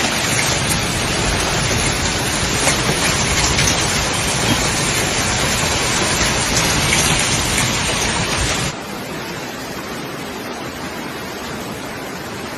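Heavy rain pouring down, a dense, steady hiss. About nine seconds in it cuts abruptly to a quieter, thinner rush of rain and wind noise.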